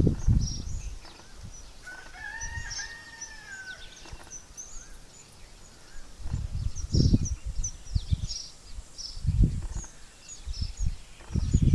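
A rooster crows once: a single arched call of about two seconds, a little after the start. Short high-pitched bird chirps run on underneath, and low rumbling bursts come in several times in the second half.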